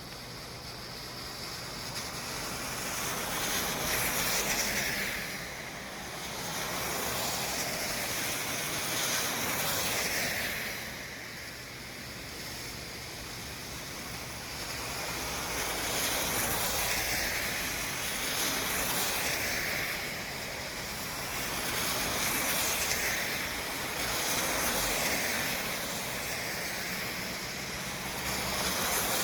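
City street traffic: vehicles passing one after another, the tyre and engine noise swelling and fading every few seconds over a steady background rumble.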